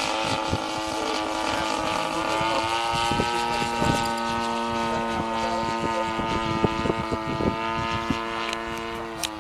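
Propeller-driven aircraft engine running steadily at high power for takeoff. Its pitch rises a little about two seconds in, holds, and drops near the end. Scattered low thumps of wind on the microphone run through it.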